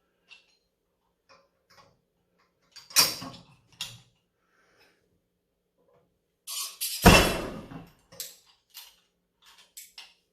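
Weight plates loaded on a thick-bar rolling handle clanking during a lift attempt: a sharp clank about three seconds in, then a louder clank and thud about seven seconds in, with light metal clinks in between.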